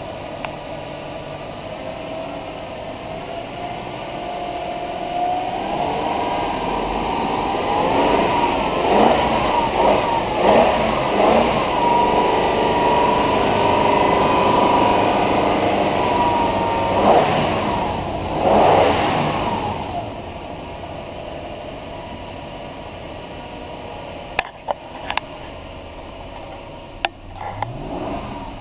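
2007 Toyota Sequoia's 4.7-litre V8 running, its speed climbing from idle and then revved several times, before settling back to idle. A few sharp clicks near the end.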